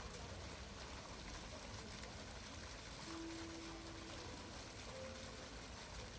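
Steady running water, an even rushing hiss with no breaks. A faint short tone sounds about halfway through.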